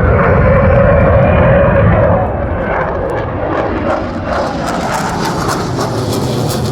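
CF-18 Hornet jet fighter's twin turbofan engines at full power with afterburners lit, a loud, dense noise that is loudest for the first two seconds, then eases a little and holds steady.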